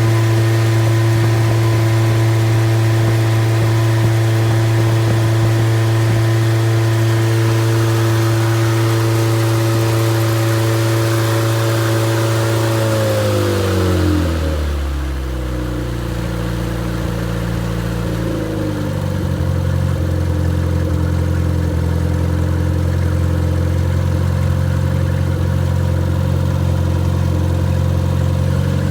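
Freshly rebuilt MG Midget 1500 four-cylinder engine running on test with no muffler. It holds a raised, steady speed, then the revs fall away about halfway through and it settles into a steady idle.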